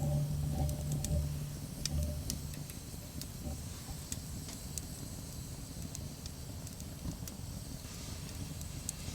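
Wood fire crackling, with sparse sharp snaps over a low outdoor rumble. Background guitar music fades out in the first couple of seconds.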